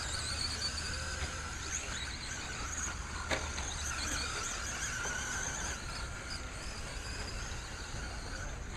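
Several electric RC stadium trucks racing together, their motors whining and wavering in pitch as they speed up and slow down, with a sharp knock about three seconds in.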